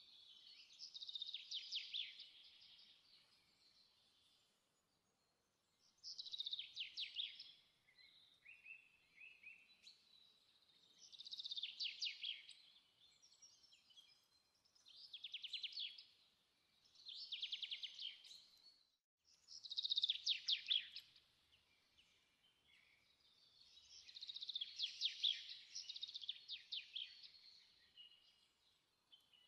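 A songbird singing short high phrases of rapid trilled notes, each a second or two long, repeated every few seconds with brief pauses between.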